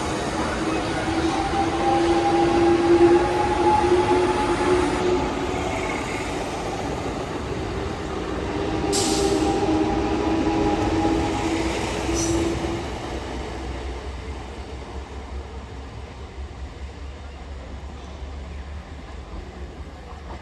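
A train running past on the rails, a steady rumbling rush with a held, ringing tone over it for the first dozen seconds. Two sharp clicks come about halfway through, and the noise then fades away as the train moves off.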